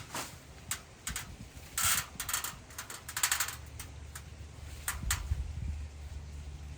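Irregular sharp clicks and short crackling rustles, a few a second and uneven in loudness, over a steady low hum.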